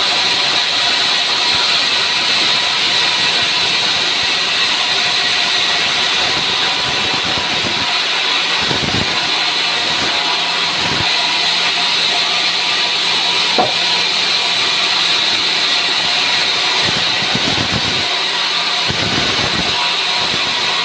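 Sawmill saw running steadily through dry pinewood, a constant loud hiss of the blade in the cut. A few low thuds come in the second half, and there is a single sharp click about two thirds of the way through.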